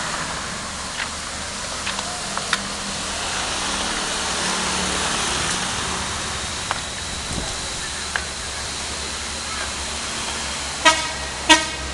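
Steady rushing noise with a few faint clicks, then two short vehicle-horn toots about half a second apart near the end.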